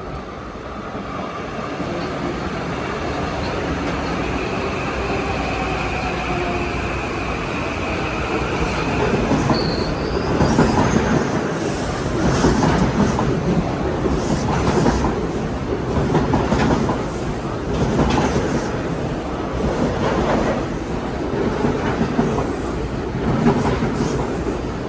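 A Metro-North train approaching and passing close by, growing louder over the first ten seconds, then its wheels clicking over the rail joints about once a second, with a brief high wheel squeal as the clicking starts.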